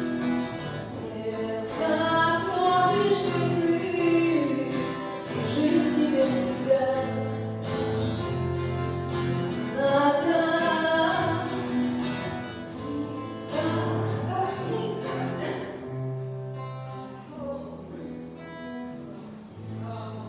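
Hymn singing with instrumental accompaniment, a guitar among the instruments, the music thinning out toward the end.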